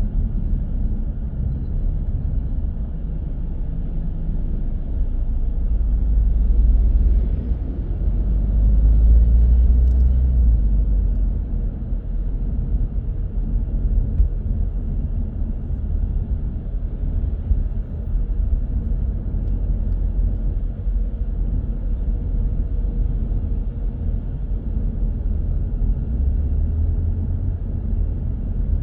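Low, steady rumble of a car driving in city traffic, engine and tyre noise, swelling louder for a few seconds around a quarter of the way in, with a faint steady high whine underneath.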